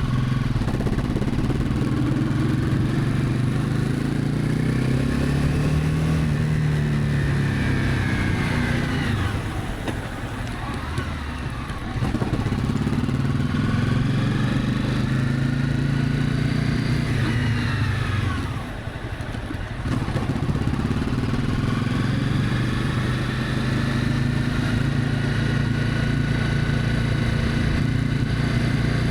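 Honda CB300F single-cylinder engine running under way, its pitch rising as the bike gathers speed. It eases off twice, about nine and about eighteen seconds in, and pulls again each time.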